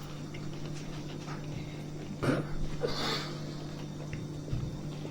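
People eating in a quiet room: breathing, a short voiced 'mm' a little over two seconds in and a breathy puff soon after, over a steady low hum.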